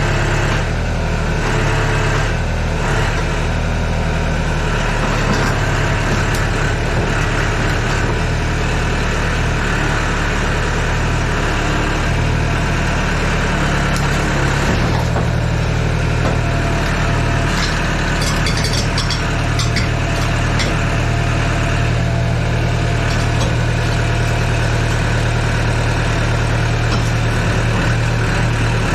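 Yanmar ViO80 excavator's diesel engine running steadily; its note changes about halfway through, with a few light clicks and rattles after that.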